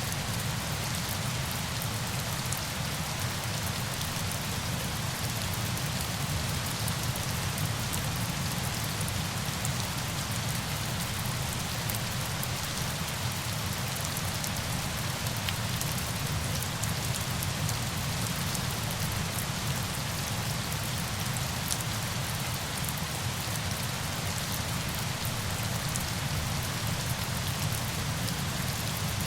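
Steady rain with a dense patter of individual drops and a low rumble underneath, unchanging throughout.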